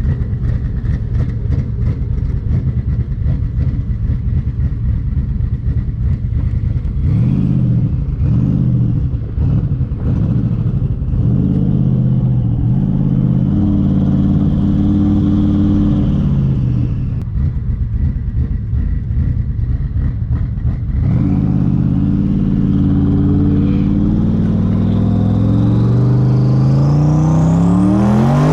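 Twin-turbo Mustang Cobra V8 running roughly at low revs, then revving up and down several times. It then pulls hard at held high revs with a faint turbo whistle above the engine, eases off, pulls again, and the revs climb steeply at the end.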